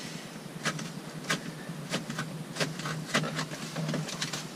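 Handling noise as a sheet of template material is pressed and fitted against plastic cabin trim: rustling with scattered sharp crackles and clicks, roughly one every half second, over a steady low hum.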